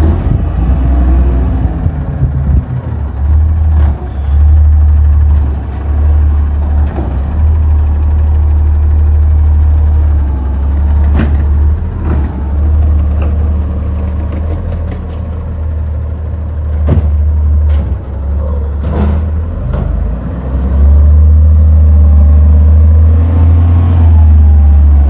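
Yard waste garbage truck's diesel engine running with a heavy, steady low rumble, with several sharp knocks and clanks from the truck partway through.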